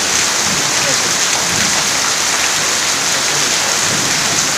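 Steady rain falling, heard from under a corrugated sheet roof: an even, unbroken hiss that does not let up.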